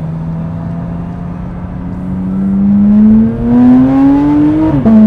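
Porsche 911 GT3 RS (992) 4.0-litre flat-six through a valved titanium exhaust, holding a steady note and then accelerating hard, the pitch rising and the sound getting louder for about three seconds. Near the end the pitch drops sharply as it shifts up a gear, and the engine pulls on.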